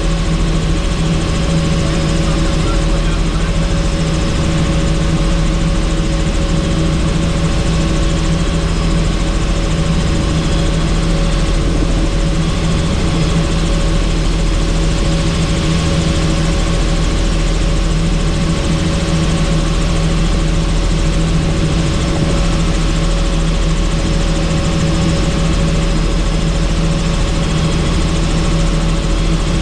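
Helicopter in flight, heard from on board: a steady engine and rotor drone with a constant hum and rushing noise, unchanging throughout.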